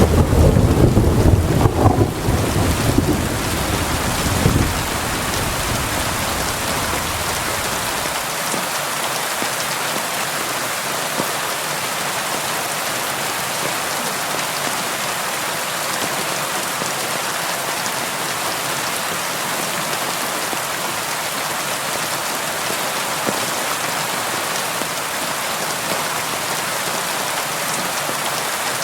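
Steady heavy rain falling on window glass, an even hiss throughout. A low rumble of thunder sounds in the first few seconds and dies away about five seconds in.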